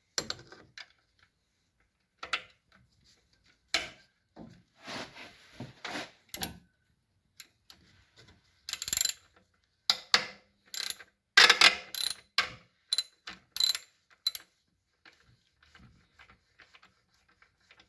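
Ratchet wrench with a 12 mm socket clicking in short bursts as the alternator bolts are worked loose, with sharp metal clinks between; the clicking is thickest and loudest in the middle.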